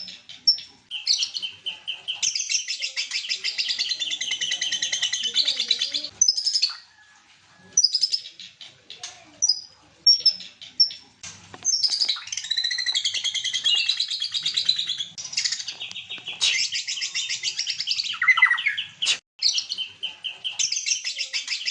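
White-rumped shama (murai batu) singing: long runs of rapid, varied warbling notes, broken by short high chirps and a brief pause.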